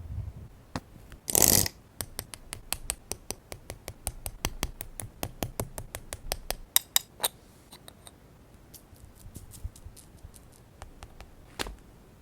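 Paper-crafting handling sounds: a brief rustling swipe, then a run of quick small clicks, about five a second, that thin out into scattered clicks, with one sharper click near the end.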